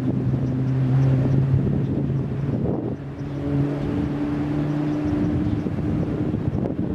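Steady engine drone with two held tones that step slightly up in pitch about three seconds in, over rumbling wind noise on the microphone.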